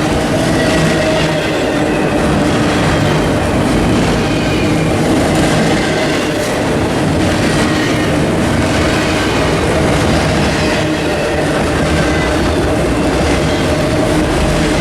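Train rolling past close by: a loud, steady rumble of wheels on the rails, with faint squeal tones from the wheels.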